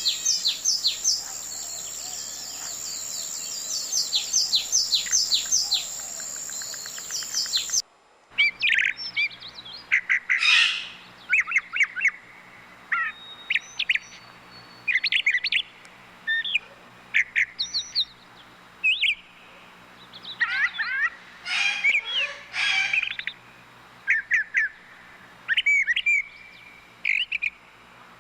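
Birds chirping: a fast series of high, downward-sweeping chirps, then, after an abrupt change about 8 seconds in, varied short chirps and whistles in separate phrases with pauses between.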